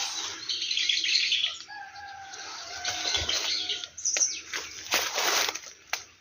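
A bird calling, one drawn-out pitched call about two seconds in, between bouts of rustling noise, followed by a run of sharp crackles and knocks.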